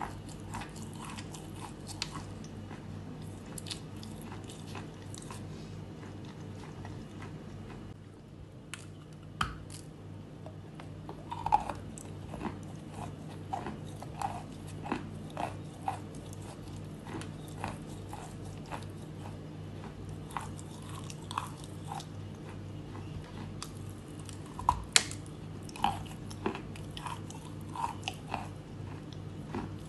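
Edible chalk being bitten and crunched close to the microphone: irregular sharp crunches and chewing, sparse at first and more frequent in the second half.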